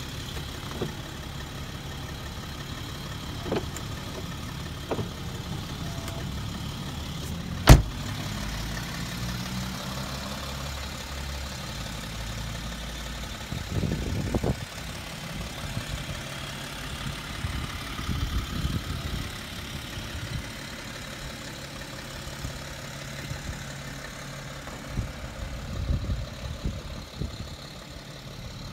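BMW X5 3.0sd's twin-turbo straight-six diesel idling steadily with a low hum. A single loud knock about eight seconds in, a car door shutting.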